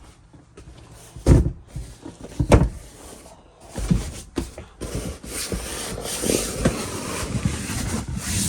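Dinette cushions being handled and laid onto the lowered table to make up the bed: two soft thumps early, then several seconds of rustling and scuffing with small knocks as they are pressed into place.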